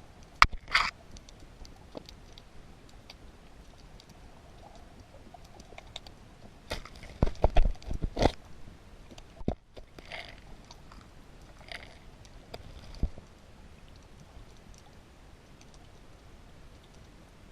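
Underwater sound: scattered sharp clicks and crackles over a faint hiss, with a loud cluster of knocks about seven to eight seconds in.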